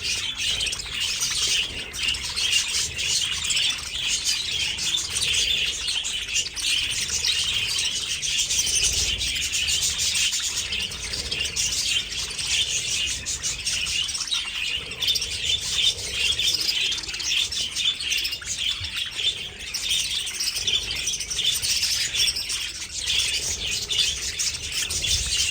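A flock of budgerigars chattering and chirping all at once, a dense unbroken babble of short high chirps.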